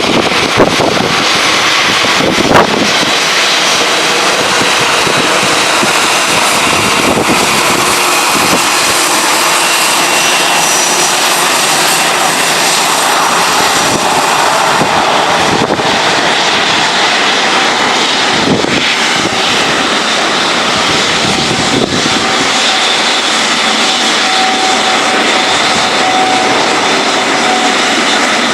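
Boeing 737-800's CFM56-7B turbofan engines running steadily: a loud, even rush of jet noise with faint high whining tones laced through it.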